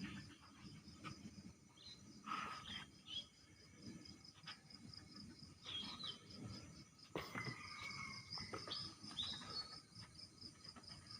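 Outdoor nature ambience: an insect chirping in a steady, rapid pulse, with a few short bird chirps and whistles scattered over it.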